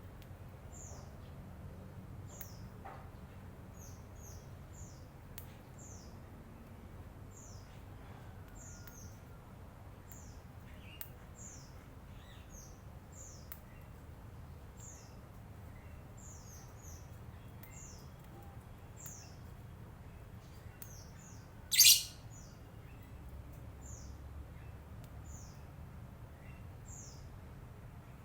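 Lovebird chirping: a steady run of short, high, falling chirps, about one or two a second, with one much louder, sharp call about two-thirds of the way through.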